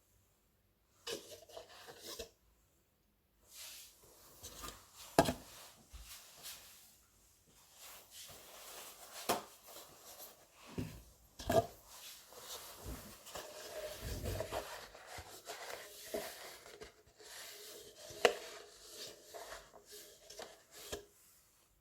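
Kitchen knife mincing garlic on a cutting board: irregular chops and taps mixed with scraping, with a few sharper knocks and short pauses.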